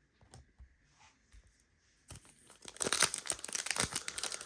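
Foil wrapper of a trading-card pack crinkling and tearing, loudly, starting about two seconds in after a few faint clicks of cards being handled.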